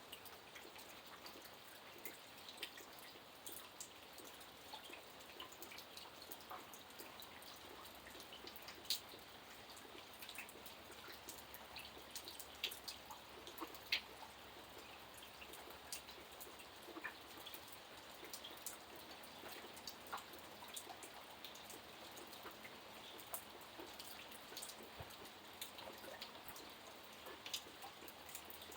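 Light rain falling with a soft, steady hiss, and scattered sharp drops and drips ticking irregularly on a surface; a few single drops stand out louder in the middle.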